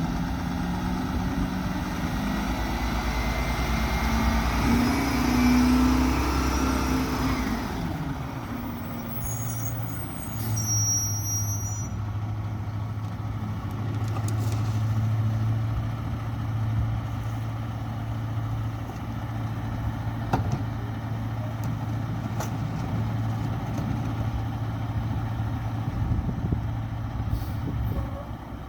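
Mack Granite garbage truck's diesel engine revving up over several seconds, then dropping back to a steady low running hum.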